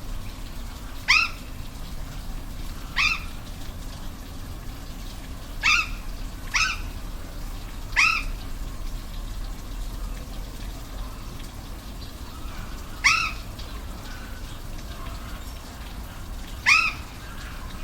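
Steady rush of a waterfall, with an animal giving seven short, sharp calls at uneven intervals; each call is a brief pitched note that bends in pitch.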